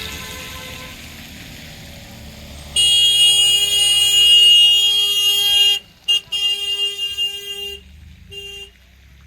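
Vehicle horn honking: one long loud blast of about three seconds, then a few shorter toots, over a low engine or traffic rumble.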